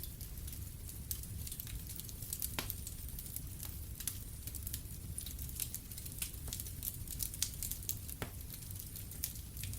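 Wood fire in a fireplace crackling, with irregular sharp pops over a low steady rumble; two louder pops come about two and a half seconds in and just past eight seconds.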